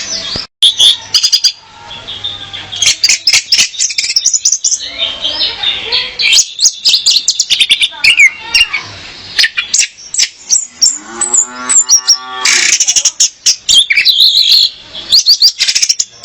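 Female orange-headed thrush singing: a fast, varied string of chirps and whistles. About two-thirds of the way through comes a lower, buzzy call of about a second and a half whose pitch bends.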